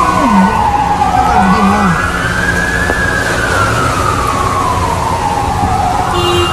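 A siren wailing slowly, its pitch sliding down, rising again about three seconds in, then falling once more near the end, over a steady background hiss.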